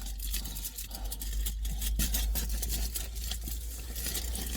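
Irregular light clicks and rustles over a steady low hum.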